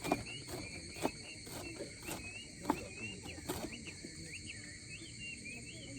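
Steady high-pitched insect chorus of crickets, with short wavering chirps over it and faint ticks about twice a second.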